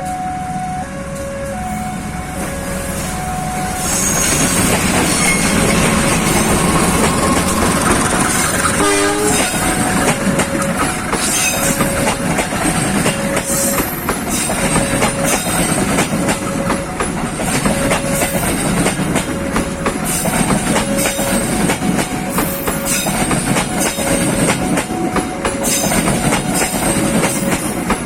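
A level-crossing warning alarm beeps on two alternating notes. From about four seconds in, a passing train's rumble and the clickety-clack of its wheels over rail joints grow and carry on, and the train sounds a short horn blast about nine seconds in.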